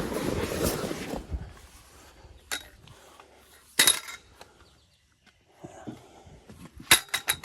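Handling noises: a rustle at first, then a couple of separate sharp knocks and a quick run of clinks near the end.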